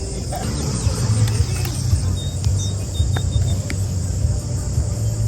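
Crickets chirring steadily under a louder, steady low rumble, with a few faint high beeps and a faint click partway through.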